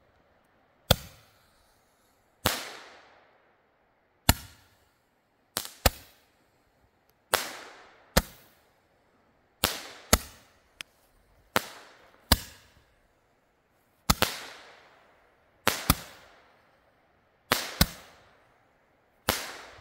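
A small consumer firework firing a string of sharp pops, about eighteen over twenty seconds and roughly a second apart, some in quick pairs, several trailing off with a short fading hiss.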